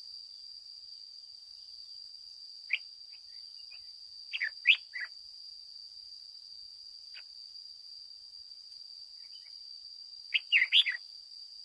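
Red-whiskered bulbul giving short, loud, clear chirping phrases, the longest bursts about four seconds in and again near the end, over a steady high-pitched whine.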